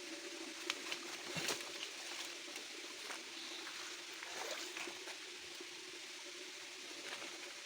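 Shallow stream trickling, with a steady low hum underneath and scattered light clicks.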